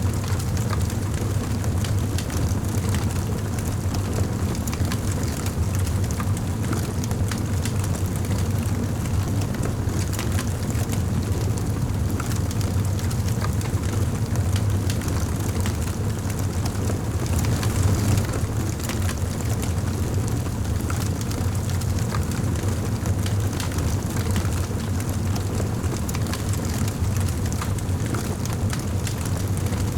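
Wood fire burning in a fireplace, crackling with many small irregular snaps over a steady low rumble.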